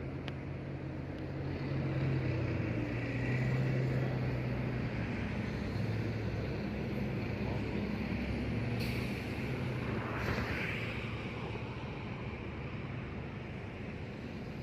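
Steady motor-vehicle engine hum with traffic noise, the engine pitch drifting slightly, and a brief rising whine about ten seconds in.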